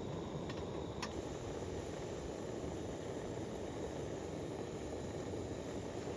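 Steady noise of heavy rain and strong wind, with a couple of faint ticks about half a second and a second in.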